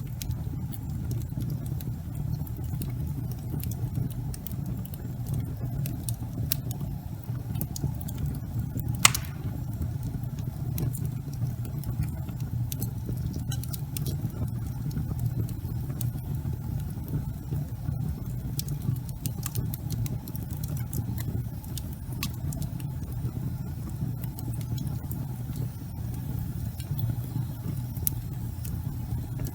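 Wood fire burning in a fireplace: a steady low rumble of flames with scattered crackles and snaps, and one louder pop about nine seconds in.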